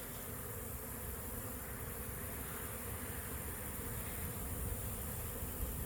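Honey bees buzzing steadily around an open hive, over a low rumble.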